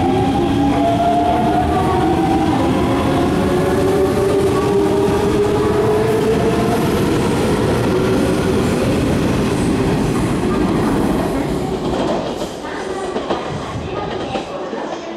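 Electric commuter train pulling out, its traction motors whining in several tones that rise in pitch and then level off, over a steady rolling rumble with clacks from the wheels. The noise falls away about twelve seconds in, and a few sharp clicks follow.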